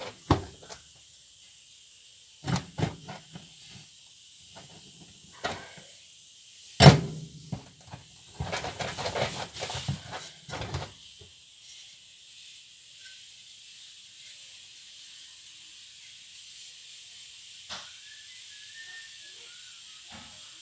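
Knocks and clatter of parts and tools being handled during washing-machine repair work, with one loud knock about seven seconds in and a busy run of rattling just after. A steady faint hiss continues under it, and the knocking stops for the second half.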